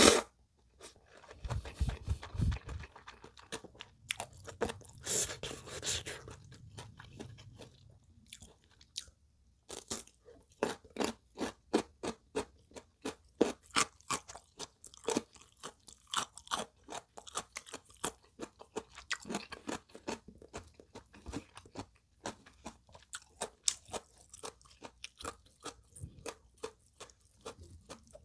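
Close-miked chewing of a mouthful of ramen noodles: wet mouth clicks and crunches, sparse at first, then a steady run of chews about two or three a second from around ten seconds in.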